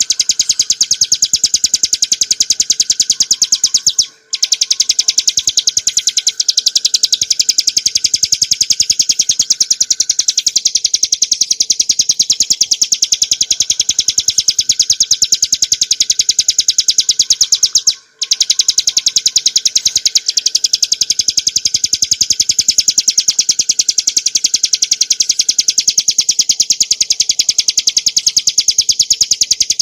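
Ciblek gunung (bar-winged prinia) singing a rapid, unbroken high-pitched trill, the continuous 'ngebren' song. It breaks off briefly twice, about four seconds in and about eighteen seconds in.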